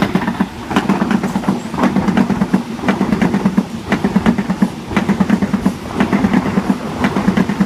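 Eight-car Oscar (H set) electric train passing through the station, its wheels clicking repeatedly over the rail joints over a low hum that pulses on and off.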